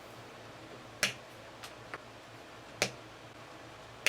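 Three sharp, separate clicks, about a second and three quarters apart, with a couple of fainter ticks between them.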